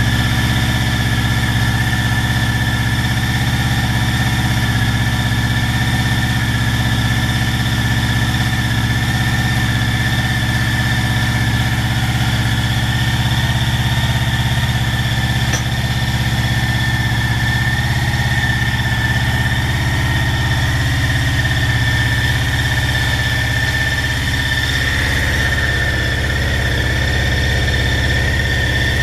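Motorcycle engine idling steadily, with a steady high whine over the low engine note.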